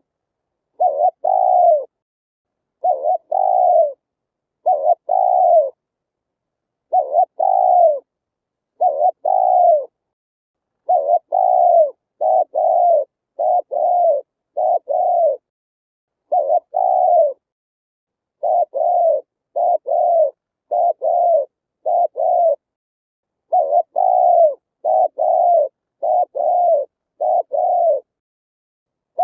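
Spotted dove cooing: short coo phrases one after another with brief gaps, each note dropping slightly in pitch.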